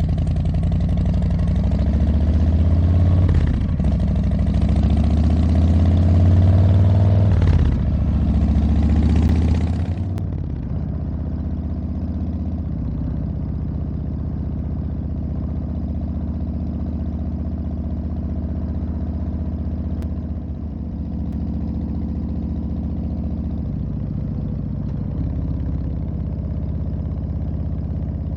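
Harley-Davidson Street Bob 114's Milwaukee-Eight V-twin engine pulling hard, its pitch dropping and climbing again twice as it shifts up through the gears. About ten seconds in it settles into a steady, somewhat quieter run.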